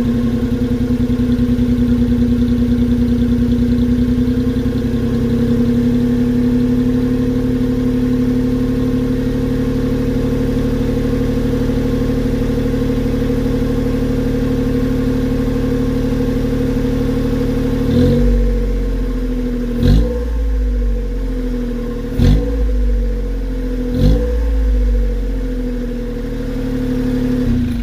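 Honda Acty kei truck's engine idling steadily through an aftermarket Kakimoto exhaust muffler made for the Honda S660. About 18 seconds in it is revved in four short blips roughly two seconds apart, dropping back to idle after each.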